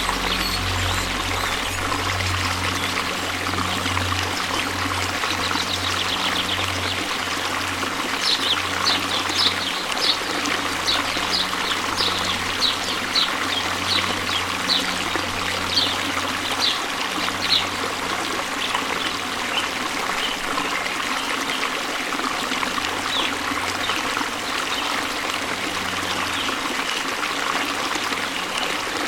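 Waterfall water rushing steadily. In the middle comes a run of short, high chirps, about two a second, from a bird or frog.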